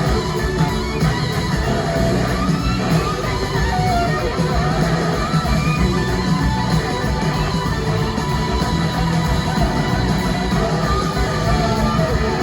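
Live rock band playing, with an electric guitar lead of short gliding notes over the full band.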